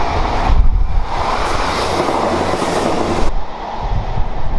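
Class 159 diesel multiple unit passing close by, its underfloor diesel engines running under the rumble and clatter of its wheels on the track. About three seconds in the sound changes abruptly to a duller, quieter rumble.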